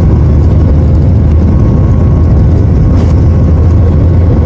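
Airliner engines heard from inside the passenger cabin: a loud, steady low rumble with a faint steady hum above it.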